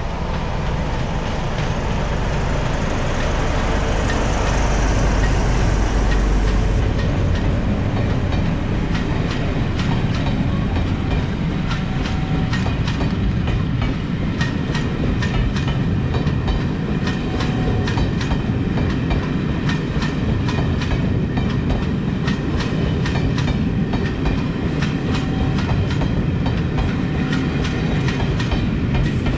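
A Class 47 diesel locomotive's engine running loud with a deep rumble as it passes, fading about seven seconds in. After that, the coaches' wheels click steadily over the rail joints in a long clickety-clack.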